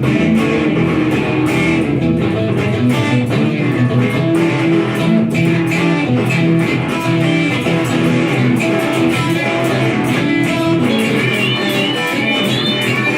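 Two guitarists improvising blues rock, playing a steady stream of quickly picked notes, with a few bent notes near the end.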